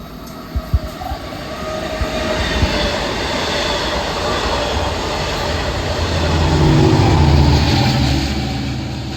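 A Long Island Rail Road train running through the station, its rumble building to a peak about seven seconds in with a low droning hum, then easing off.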